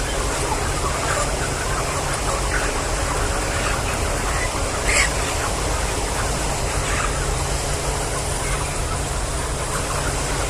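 A flock of chickens calling all at once, a dense chorus of short chirps and clucks over a steady low hum, with one louder call about five seconds in.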